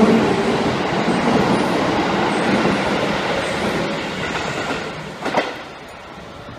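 A Sotetsu 8000 series electric train pulling away, its wheels rumbling and clattering over the rails. The sound fades steadily as it leaves, with one short sharp clack about five seconds in.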